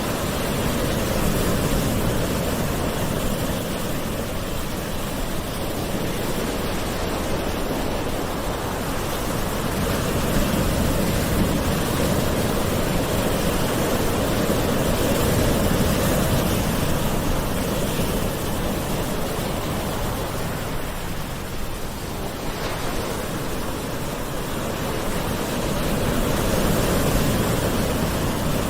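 Calm ocean waves washing onto a shore: a steady rush of surf that swells and ebbs slowly every several seconds.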